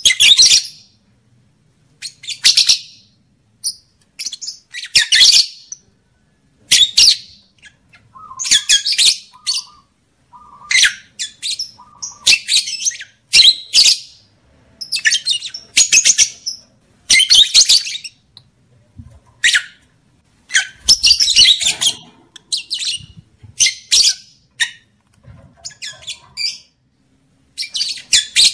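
Lovebird chattering in bursts of shrill, high chirps, a burst every second or two with short silent gaps between.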